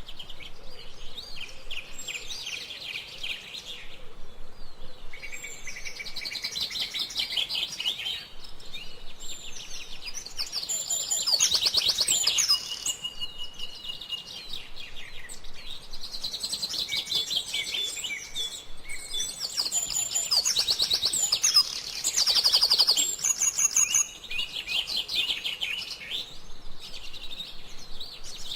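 Several small songbirds chirping and twittering, with fast trills and quick repeated high notes overlapping one another. The calls come thickest and loudest about eleven seconds in and again around twenty to twenty-three seconds.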